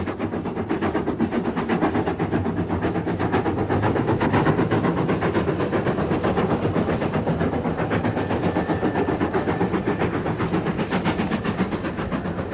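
Train running at speed, with a fast, even beat of about five pulses a second.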